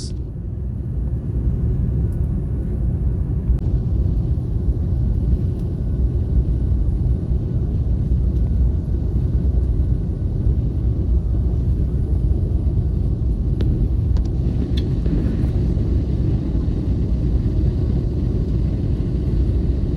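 Steady low rumble heard from inside a moving vehicle, with no speech over it.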